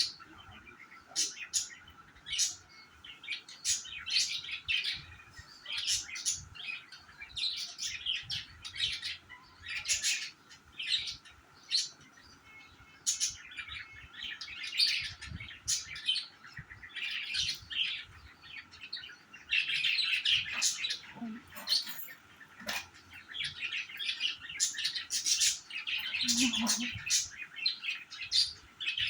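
Several pet budgerigars chirping and chattering, a busy stream of short high chirps and warbles.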